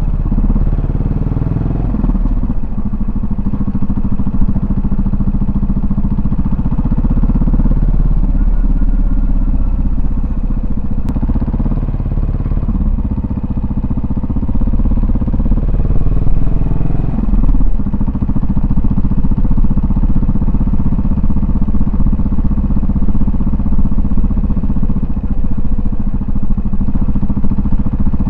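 Yamaha SR400's air-cooled single-cylinder four-stroke engine and exhaust, heard from the running motorcycle. The pitch rises and falls with the throttle several times.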